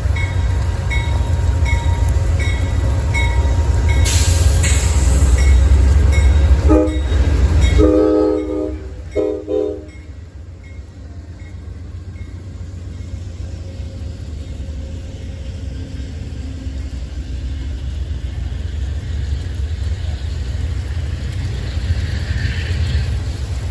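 A train passing with a heavy low rumble, a faint regular ding about every half second in the first few seconds and a short hiss around four seconds in. About seven seconds in, the train horn sounds several blasts, and the rumble then drops to a quieter steady noise.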